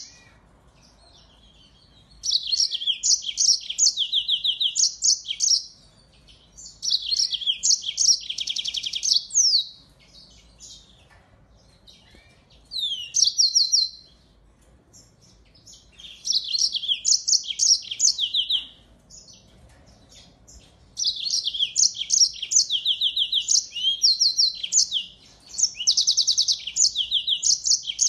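Finch song: a single bird singing phrase after phrase of fast trills and quick chirps, each phrase a few seconds long with short pauses between them.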